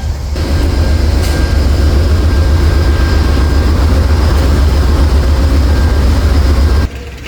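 Amtrak train's diesel locomotive running, a loud, steady, deep rumble with a faint steady whine above it, cutting off abruptly near the end.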